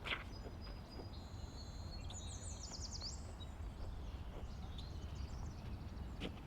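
Forest ambience: songbirds calling high and thin, with a rapid run of quick rising notes about two to three seconds in, over a steady low rumble. A short sharp snap right at the start.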